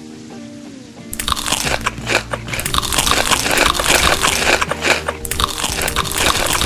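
Loud crunching of someone biting and chewing crisp food close to the microphone, starting about a second in, over soft background music.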